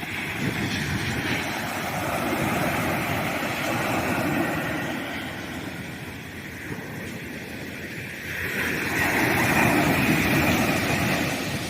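Sea waves breaking on a sandy beach, a steady wash of surf that swells twice, once early and again near the end.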